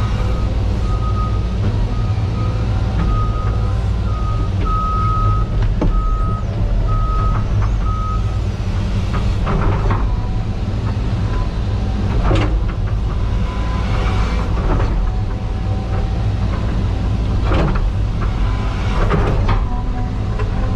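CAT 320 GC excavator's diesel engine running steadily with a low hum while it works. A backup alarm beeps about once a second for the first eight seconds. Several brief louder sounds from the machine working follow in the second half.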